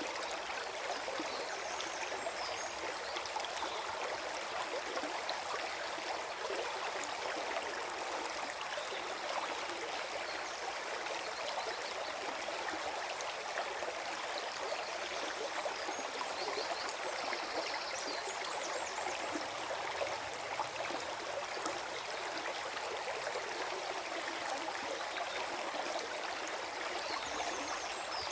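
Forest stream flowing and gurgling steadily.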